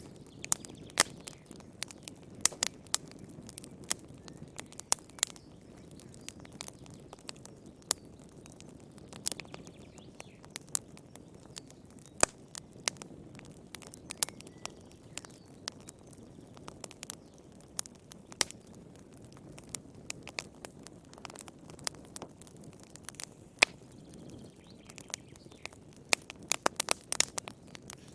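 Wood campfire crackling, with irregular sharp pops and snaps over a soft low rumble of burning, and a quick run of pops near the end.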